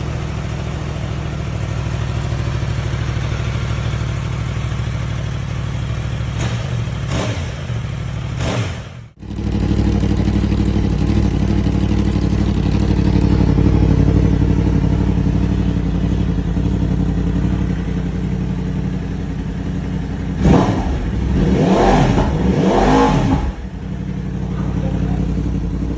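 2023 Yamaha R1's crossplane inline-four idling and revved in quick blips, first through one exhaust, then, after an abrupt cut about nine seconds in, through the other (stock and Akrapovič). It idles a little louder after the cut and is revved several more times near the end.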